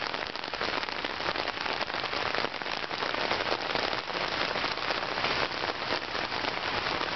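Heavy downpour: a steady, dense hiss of rain with many close drop impacts.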